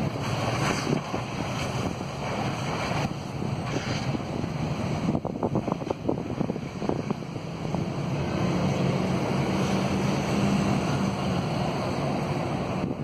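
Wind buffeting the microphone over a steady outdoor rumble, with a cluster of crackles about five to seven seconds in and a low steady hum in the second half.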